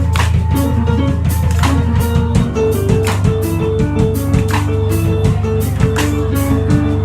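Live rock trio playing an instrumental passage: a guitar picks a riff of short repeated notes over a held bass line, with a drum kit keeping a steady beat and cymbal hits about every second and a half.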